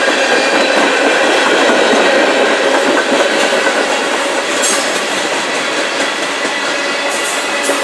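Loaded tank cars of a freight train rolling past: the steady rumble of steel wheels on rail, with a few sharp clicks of wheels crossing rail joints about two-thirds of the way through and near the end.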